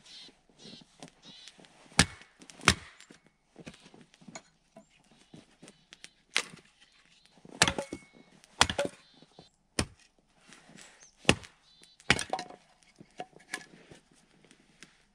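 Firewood being chopped: about eight sharp blows at uneven intervals, with softer taps and crackles between them.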